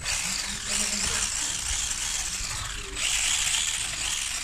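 WLtoys 144001 RC car's electric motor and geared drivetrain whirring, the pitch rising and falling as the throttle is worked, with a fresh surge about three seconds in.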